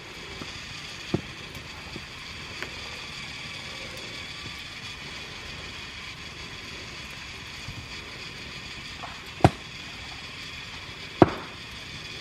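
Meat cooking over a campfire: a steady sizzling hiss with three sharp pops from the fire, one about a second in and two louder ones near the end.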